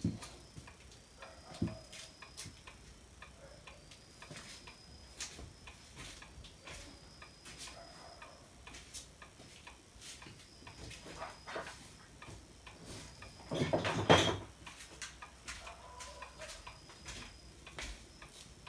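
Small irregular clicks and taps of tools and plastic parts on a hot air gun handle being taken apart, with a louder burst of scraping and handling about three-quarters of the way through.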